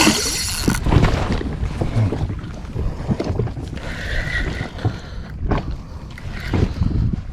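Wind buffeting the microphone on a small inflatable boat, with irregular knocks and rustling from handling, and a short hissing burst right at the start.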